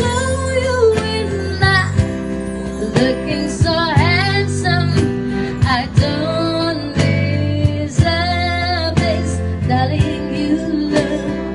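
A girl or woman singing a song with instrumental backing, guitar among it, over a steady beat.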